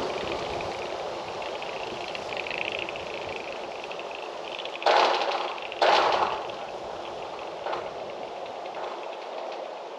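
Steady wind noise, with two sudden loud knocks or scrapes about a second apart midway through and a fainter one shortly after.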